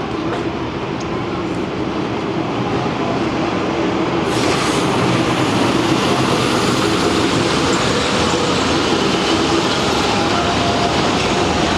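A train running along the track: a steady rumble of wheels on rail, with a hissing noise that swells about four seconds in and stays.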